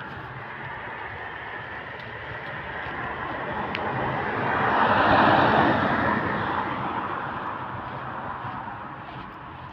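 A vehicle passing by: a noisy rush that swells steadily to a peak about five seconds in, then fades away.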